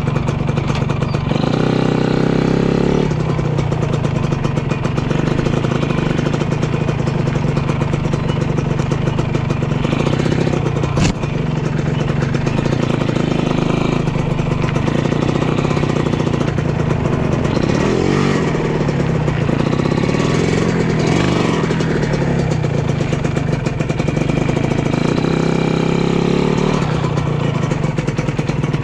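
Two-stroke single-cylinder engine of a Honda Dash 125 motorcycle running on the move, its revs rising and falling several times. There is one sharp click about eleven seconds in.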